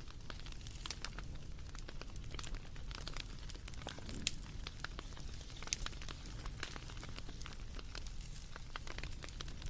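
Wood fire crackling: irregular sharp pops and snaps of varying strength over a low steady rumble.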